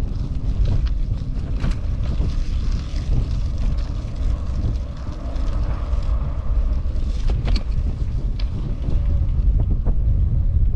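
Wind buffeting a microphone on a moving bicycle, a loud gusting low rumble, with a few sharp clicks and rattles scattered through it.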